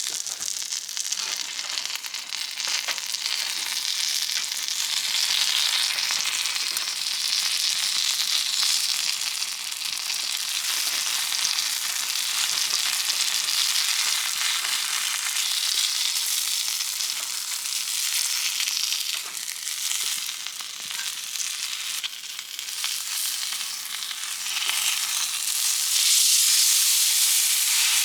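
Food frying on a hot griddle: a steady sizzle that swells and eases, growing louder near the end.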